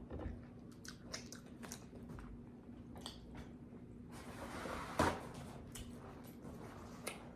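Close-miked chewing and wet mouth smacking while eating sauce-covered boiled potatoes and corn, with scattered small clicks and one sharper smack about five seconds in. A faint steady hum runs underneath.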